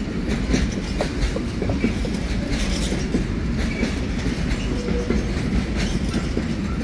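Container freight wagons of a long goods train rolling past, a steady rumble of wheels with irregular clicks over the rail joints and a few brief, faint wheel squeals.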